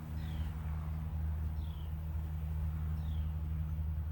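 A bird repeating a short, high chirp that slides downward, about once every second and a half, over a steady low hum.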